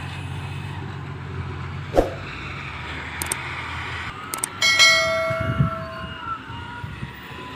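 Heavy truck engine running at low revs, with a sharp knock about two seconds in. A little before five seconds a loud ringing tone starts suddenly and fades over about a second.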